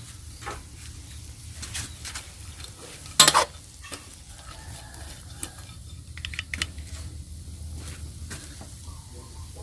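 Cooking at a pot: a utensil stirring and tapping against cookware with light sizzling over a steady low hum, and one sharp clack about three seconds in.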